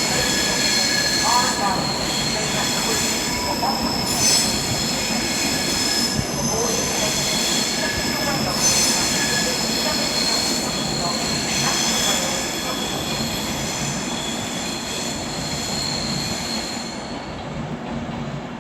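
Departing electric trains' wheels squealing: several high, steady whining tones over a rolling rumble, fading over the last few seconds as the trains draw away.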